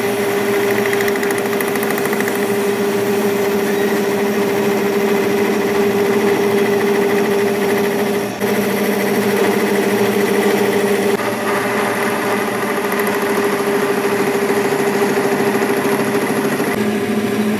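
A motor-driven workshop machine running steadily with a constant hum and whine. The sound changes abruptly about eight and eleven seconds in.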